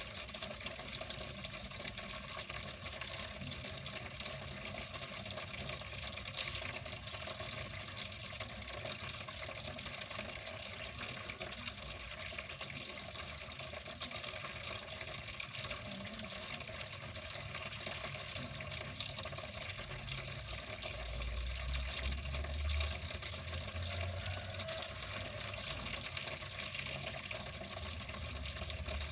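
Water running steadily, an even flowing and splashing sound. A brief low rumble comes about 21 seconds in.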